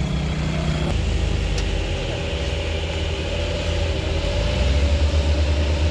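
Heavy vehicle engine running with a steady low rumble and a faint steady whine. The rumble grows louder about two-thirds of the way through.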